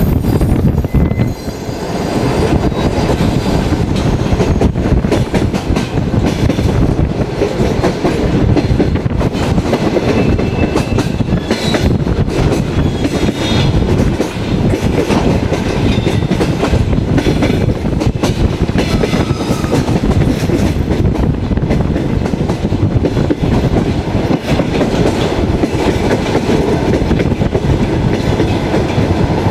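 Passenger railway carriage running along the track, heard from inside at an open window: a continuous heavy rumble with wheels clattering over the rail joints.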